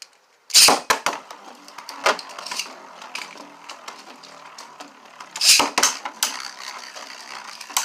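3D-printed Beyblade spinning tops launched into a plastic stadium: a sharp, loud burst as the first is launched, then the tops spinning and clattering with many small clicks, and a second loud burst about five and a half seconds in.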